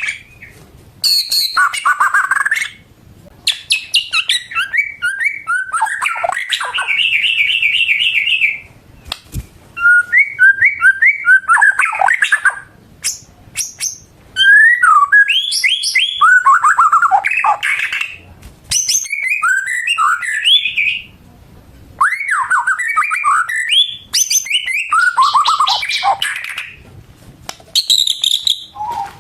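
White-rumped shama (murai batu) singing: loud phrases of varied whistles, rapid repeated notes and trills, broken by brief pauses.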